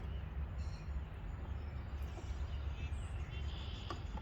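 Steady low background rumble with a few faint, short clicks of plastic being handled as a headlight's dust cap is tried on over the back of the bulb housing. A few faint bird chirps.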